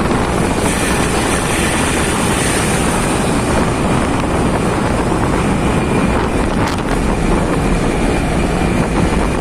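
Steady wind noise on the microphone mixed with motorcycle and road noise while riding on the highway.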